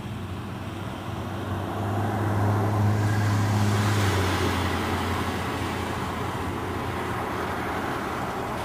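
Diesel-hauled Pacific Surfliner passenger train running past at a distance: a steady low diesel rumble under a haze of wheel and rail noise, loudest a couple of seconds in, then easing a little.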